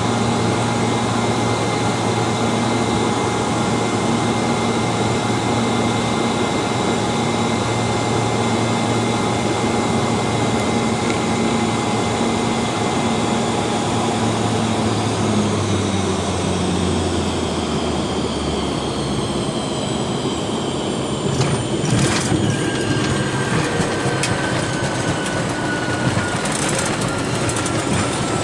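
Hawker 800 business jet cabin noise: a steady jet-engine hum whose tones sink and fade about two-thirds of the way through as power comes back. Then come a few sharp thumps and a rougher rumbling, with a whine that falls and then rises near the end.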